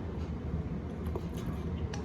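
Faint eating sounds during a noodle mukbang: a few soft clicks of mouth or utensils over a steady low hum.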